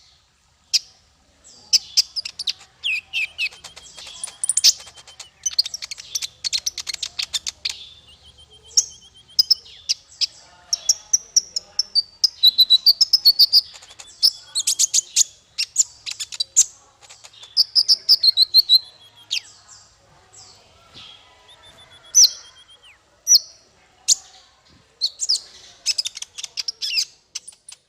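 Small songbird singing: fast, high-pitched chirps, twittering runs and short buzzy trills in busy phrases broken by brief pauses.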